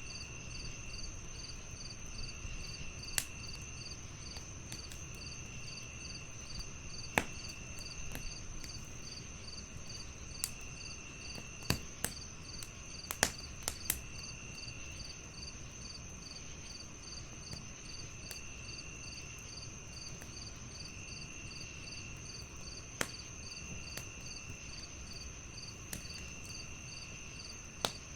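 Wood fire crackling, with sharp pops every few seconds over a low rumble, against a chorus of crickets: a steady high trill, a fast pulsing chirp, and a lower trill that comes in for about a second roughly every two seconds.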